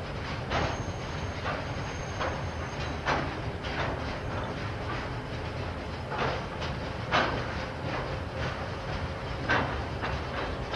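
KiwiRail train rolling past, its wheels clacking over rail joints at irregular intervals over a steady rumble. A faint, thin high whine sounds for a couple of seconds near the start.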